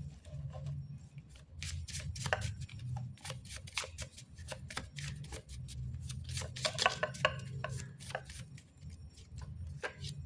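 Divination word cards being shuffled and handled: a run of quick, crisp paper flicks and taps over a low hum.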